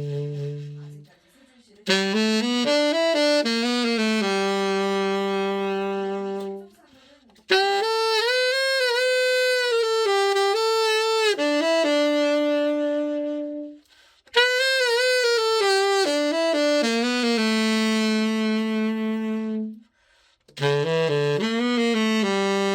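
Selmer Super Action 80 Series II tenor saxophone played in four short melodic phrases with brief breaks between them, each phrase ending on a long held note, some with vibrato: the horn being play-tested after a full overhaul.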